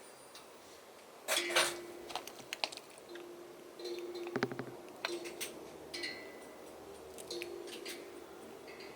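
Metal kettle being handled: light clicks and clinks of its lid and handle, loudest in a cluster about one and a half seconds in, over a faint steady low hum.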